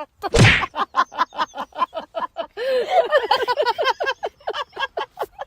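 A rapid run of short, pitched animal calls, several a second, after a brief noisy burst near the start.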